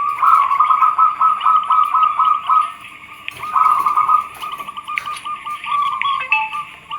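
Zebra doves cooing: quick runs of short, evenly repeated notes, pausing about two and a half seconds in and starting again, with a shorter lull near the end.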